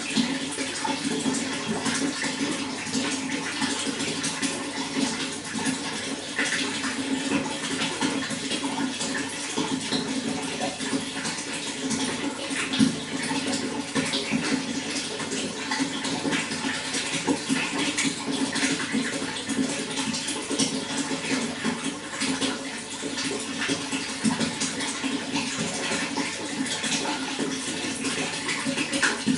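Running water flowing and splashing steadily, without a break.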